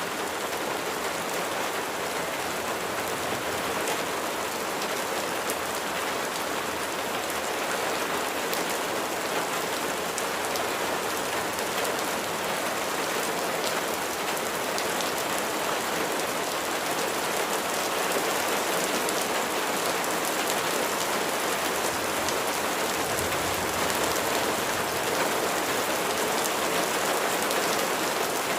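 Steady rain falling, a dense hiss with many individual drops ticking on a hard surface.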